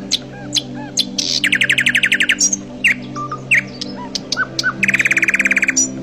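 Songbirds singing: many short chirps and two fast trills of about a second each, around two and five seconds in, over soft background music with low sustained notes.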